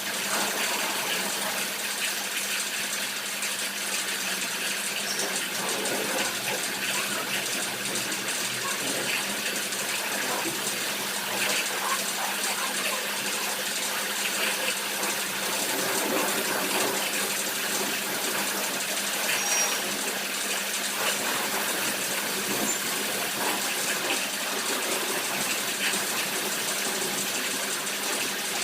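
Water spraying steadily from a car-wash pressure washer, a constant hiss with no breaks.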